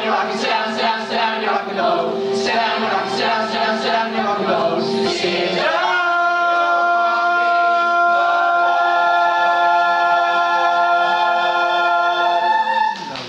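Teenage chorus singing the final bars of a show tune: a run of short sung phrases, then a long held final chord from about six seconds in, cut off sharply near the end.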